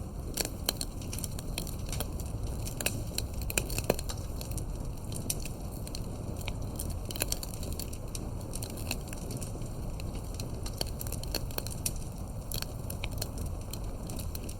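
Wood campfire burning: irregular crackles and sharp pops of burning wood over a steady low rumble of the fire.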